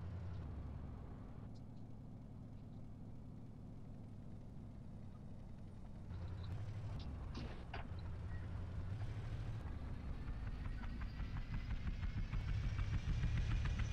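Vehicle engine running with a steady low hum, then gathering speed from about nine seconds in with a rising whine and a growing rattle. A short click about seven and a half seconds in.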